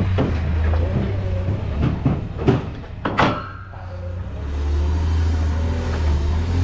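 An engine runs steadily with a low hum, easing off about halfway through and then building back up. Several sharp clunks and knocks come in the first half.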